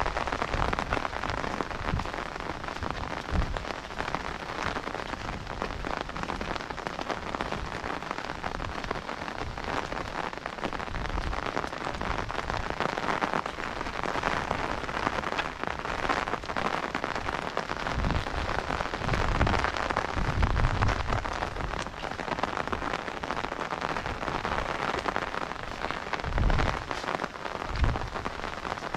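Heavy rain falling steadily on wet ground, grass and standing water: an even hiss, with a few brief low rumbles in the second half.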